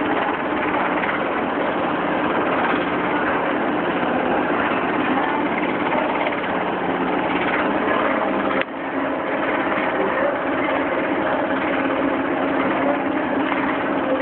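Fishing boat's diesel engine running steadily, a constant drone with a brief dip in level a little past halfway.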